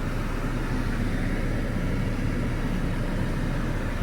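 Car engine idling, a steady low rumble with no change in level.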